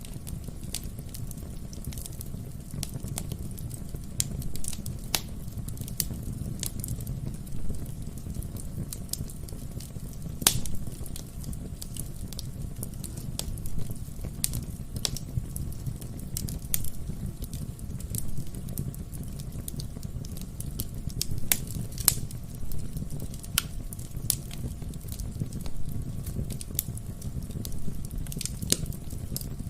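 Wood fire burning in a fireplace: a steady low rumble of flames with frequent irregular crackles and pops from the burning logs, a few sharper pops standing out.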